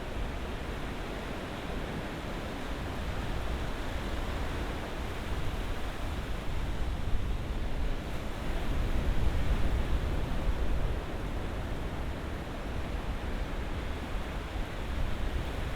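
Ocean waves washing steadily on the shore, swelling louder twice: once a few seconds in and again around the middle.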